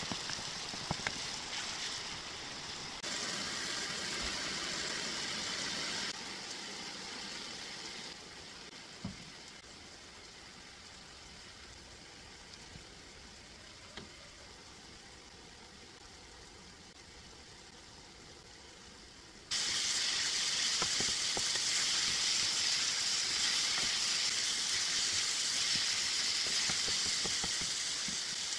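Minced pork and onion sizzling in a frying pan as they are stir-fried with wooden spatulas, with a few light utensil taps. The sizzle drops low through the middle and comes back much louder about two-thirds of the way in.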